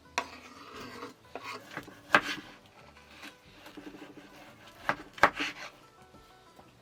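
Wood being worked by hand: rough scraping and rubbing broken by a few sharp knocks, the loudest about two seconds in and twice close together about five seconds in.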